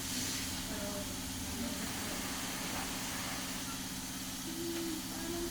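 Steady machinery hum with an even hiss, typical of a running workshop machine, with a few faint brief tones over it.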